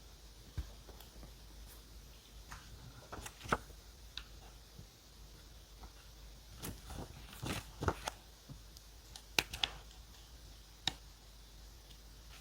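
Small clicks, taps and short scratchy rustles of paper and stationery being handled on a desk, coming in a few scattered clusters.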